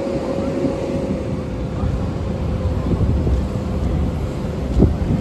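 Outdoor airshow background: a low rumble of wind on the microphone and aircraft engine noise, with a thin steady whine and a single knock near the end.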